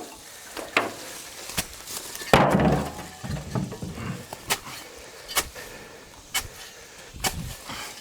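A series of sharp knocks or clicks about once a second, with one louder, longer clattering thud between two and three seconds in.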